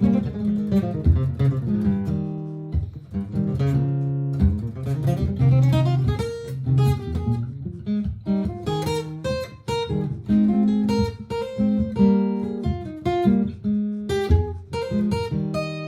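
Martin GPCPA4 acoustic guitar playing fast runs of picked notes over a looped strummed accompaniment through a looper pedal.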